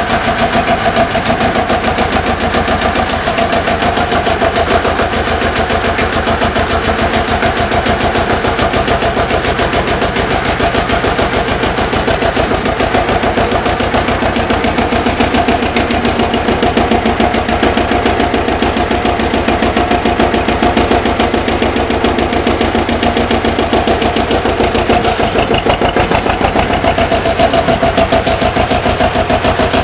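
1951 Güldner AF 20 tractor's diesel engine running steadily with an even knocking beat, still cold after a start at −12°C.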